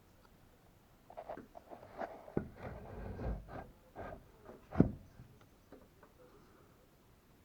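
A series of irregular soft knocks and clicks, the loudest about five seconds in, with a brief low rumble around three seconds in.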